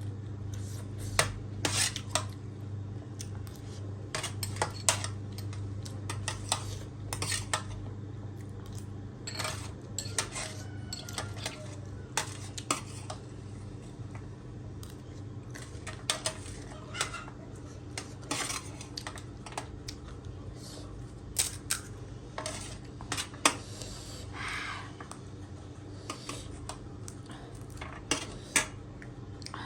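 Cutlery clinking and scraping against a dish during eating, with scattered sharp clinks every second or so over a steady low hum.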